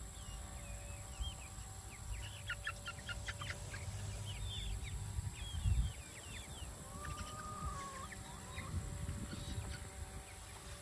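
Barnyard mixed chickens clucking in quick runs of short calls and chirps, with one longer drawn-out call about seven seconds in. There is a low rumble under them and a dull bump near six seconds.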